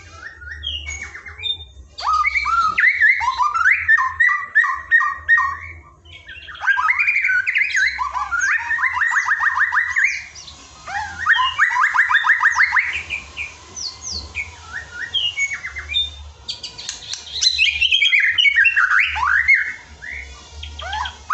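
Songbird song played as masteran, song-training audio for white-rumped shamas: bursts of a few seconds of fast repeated trilled notes, sharp chips and gliding whistles, with short quieter gaps between them.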